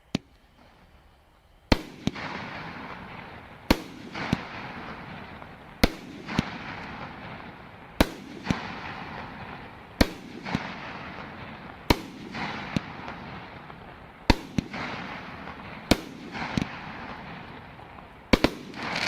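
Winda Cherry Bomber firework cake firing its ten shots: a sharp bang about every two seconds, each followed by a second pop and a hiss of crackling, with the loudest crackling burst near the end.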